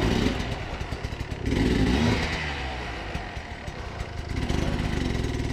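Dirt bike engine revving in bursts on a rough trail, loudest about two seconds in and then dropping back to a lower, uneven running.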